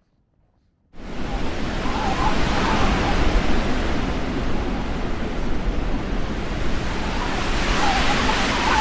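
Storm wind blowing hard and buffeting the microphone with a low rumble, cutting in abruptly about a second in after near silence.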